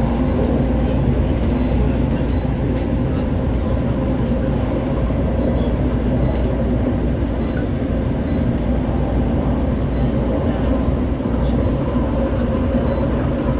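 West Midlands Metro CAF Urbos 3 tram running between stops, heard from inside the passenger saloon. A steady rumble of wheels on rail carries a steady hum from the drive.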